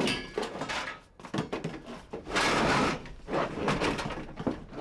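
Items being handled and moved around: a string of clatters and scrapes, with a longer, louder scraping rustle about two and a half seconds in.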